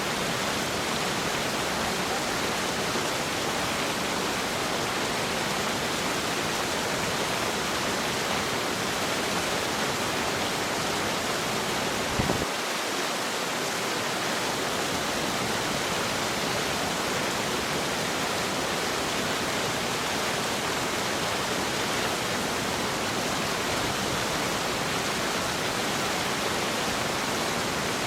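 Steady rush of fast-flowing water, a mountain stream or falls, with an even, unbroken hiss. A brief click about twelve seconds in.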